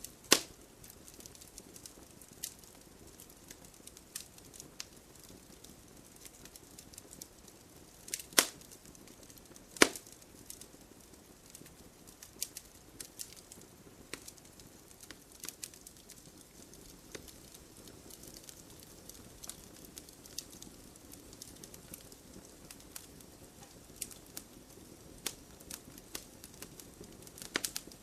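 Wood campfire burning, with a low steady hiss and frequent small crackles and pops. Three much sharper, louder pops stand out: one right at the start and two more about eight and ten seconds in.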